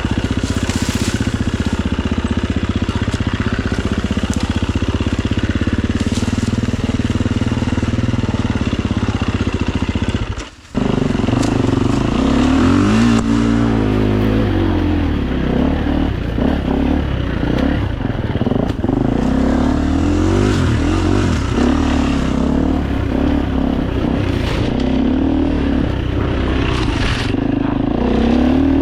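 Four-stroke single-cylinder dirt bike engine being ridden: a steady note for the first third, a brief break, then revs repeatedly rising and falling.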